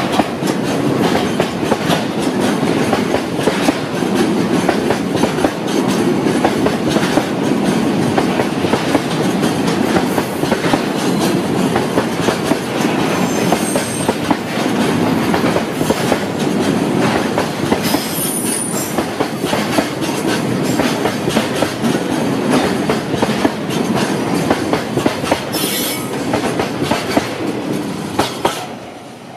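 Tank wagons of a freight train rolling past close by, the wheels clicking steadily over the rail joints with a heavy rumble. Brief high wheel squeals come in around the middle. The noise falls away near the end as the last wagon goes by.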